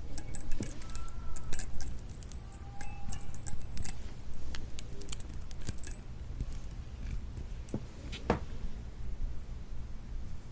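Close-miked eating sounds of novelty jelly candy: a dense run of crisp, bright clicks and crackles for the first six seconds, then sparser, softer clicks. A steady low hum runs underneath.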